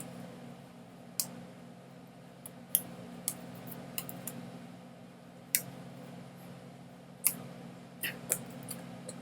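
Irregular sharp clicks, about eight in nine seconds with two close together near the end, over a steady low electrical hum.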